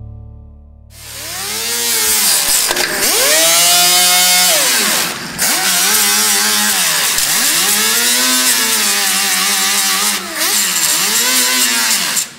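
A handheld electric power tool running hard on steel, starting about a second in. Its motor pitch sags and recovers in slow swings as it is pressed into the work and eased off, under a steady hiss, with three brief let-offs.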